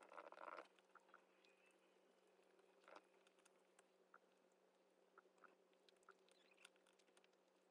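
Faint small clicks and short rustling noises over a low steady hum, the loudest rustle right at the start and another about three seconds in.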